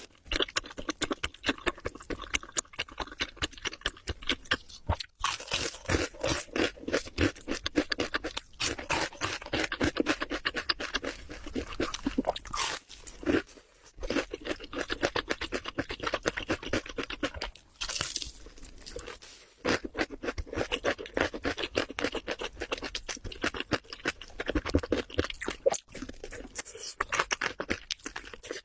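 Close-miked chewing of crunchy food, with rapid crisp crunches in quick succession that stop briefly a few times.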